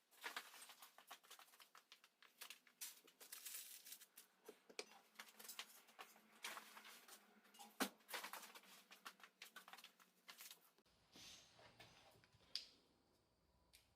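Faint, quick clicking and clattering of motorcycle transmission parts being handled on a workbench, with one sharper knock about eight seconds in; the clicking stops about eleven seconds in.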